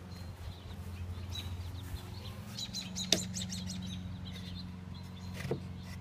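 Birds chirping in a quick cluster of short high calls a few seconds in, with scattered chirps elsewhere, over a steady low hum; a single sharp click comes about three seconds in.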